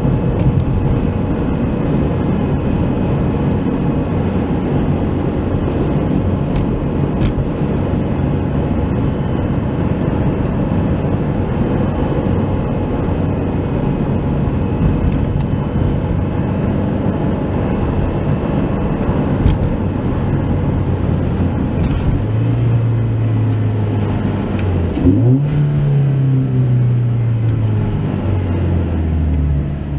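Toyota 86's flat-four engine and aftermarket Kakimoto Class KR exhaust heard from inside the cabin while driving, over steady road rumble. About two-thirds of the way in the engine note grows stronger; a few seconds later its pitch dips sharply, jumps back up and then slowly falls.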